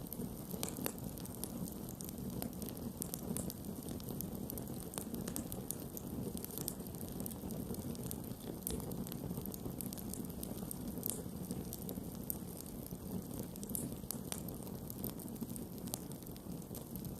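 Campfire burning with a steady low rush and frequent sharp wood crackles and pops at irregular moments.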